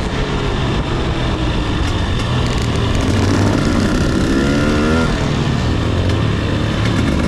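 Two-stroke dirt bike engine running under way, its revs climbing in a rising pitch about halfway through, over a loud steady rush of noise.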